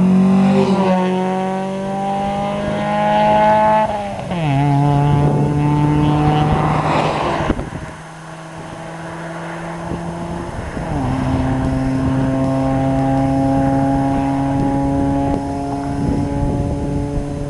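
Mitsubishi Eclipse engine under acceleration, its note climbing for about four seconds and then dropping sharply. It then holds fairly steady, fades briefly, and drops again about eleven seconds in before settling into a steady note.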